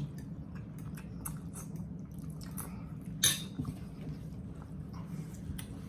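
Cutlery clinking and scraping on plates during a meal: scattered small clicks, with one louder clink about three seconds in, over a steady low hum.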